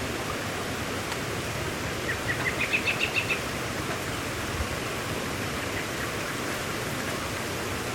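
Steady rain falling, with a bird giving a quick run of short high chirps about two seconds in.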